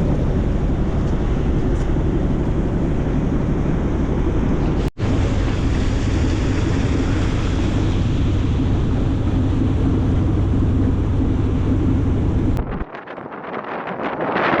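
Wind blowing across the microphone aboard a moving boat, with a steady low drone underneath. The sound drops out briefly about five seconds in and changes abruptly near the end to a thinner, gusty hiss with the low drone gone.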